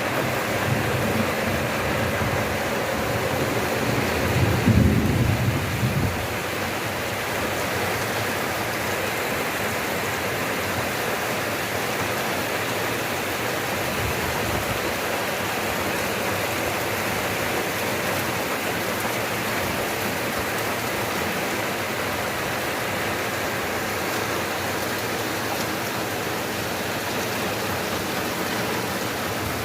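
Steady rain falling, with a low rumble of thunder over the first six seconds, loudest about five seconds in, and a fainter rumble near the middle.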